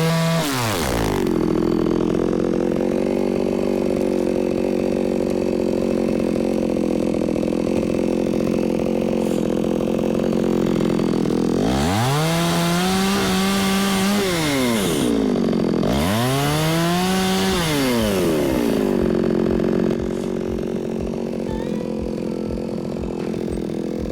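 Two-stroke chainsaw running while cutting logs for firewood. It holds a steady lower pitch, then twice revs up to a high whine and falls back, about halfway through and again a few seconds later.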